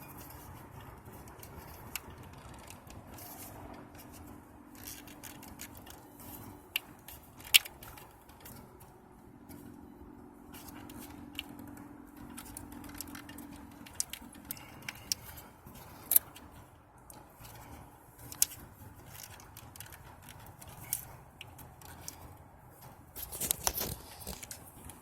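Scattered plastic clicks and scrapes as a stuck electrical connector is wiggled and worked loose from an engine sensor, with a denser clatter near the end as it comes free.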